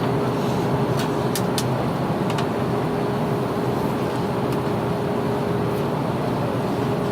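Airbus A330-300 passenger-cabin noise on final approach with the landing gear down: a steady rush of airflow and engine noise with a faint steady hum. A few faint ticks sound in the first couple of seconds.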